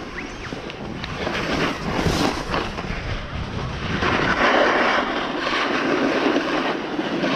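A snowboard sliding and scraping over snow, with wind rushing over the microphone while riding. It grows louder about four seconds in.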